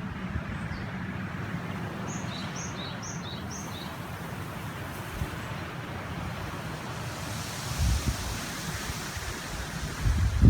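Steady rush of a flowing mountain river, with gusts of wind rumbling on the microphone, strongest about eight seconds in. A small bird calls about two seconds in: four quick high two-note phrases, each dropping in pitch.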